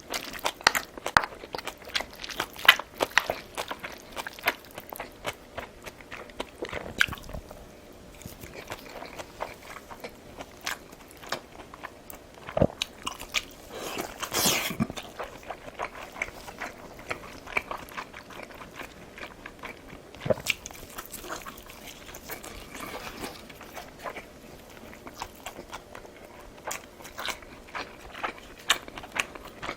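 Close-miked chewing and biting, with many small wet clicks and crunches throughout and a louder, noisier burst about halfway through.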